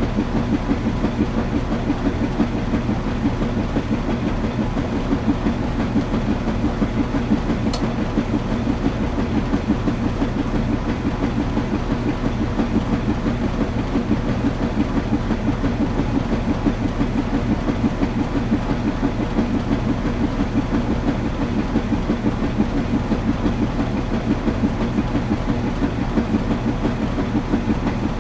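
Washing machine running steadily: a low mechanical hum with a fast, even pulsing. There is a brief faint tick about eight seconds in.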